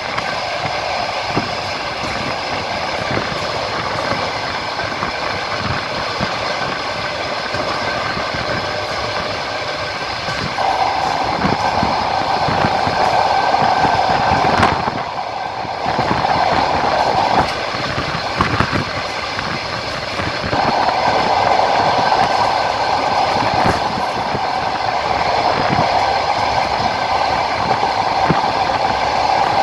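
Passenger train running along the track, its wheels clattering over rail joints with a steady rumble. A louder hissing band comes and goes in the middle and the latter part.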